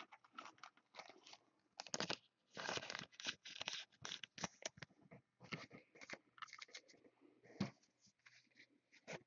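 Faint, irregular rustling and scraping of trading cards and plastic card holders being handled.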